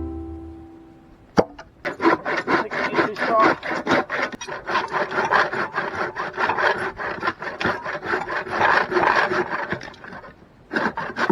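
Hand saw cutting through wood in quick, steady back-and-forth strokes, after a single sharp knock.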